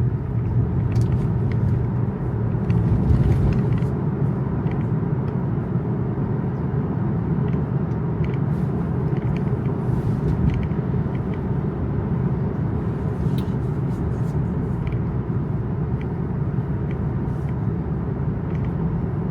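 Road and tyre noise heard inside a Tesla electric car's cabin while driving on wet streets in the rain: a steady low rumble with faint scattered ticks.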